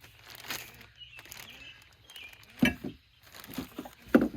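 Irregular handling noises from work on a tractor repair: rustling and light clatter, with two sharper knocks, one about two and a half seconds in and a louder one near the end.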